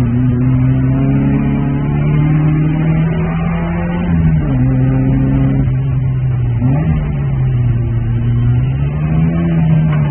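Opel Manta GTE rally car's four-cylinder engine heard from inside the cabin, driven hard uphill. The revs rise and drop as it changes gear, about four and six seconds in and again near the end, with a quick rev blip around seven seconds.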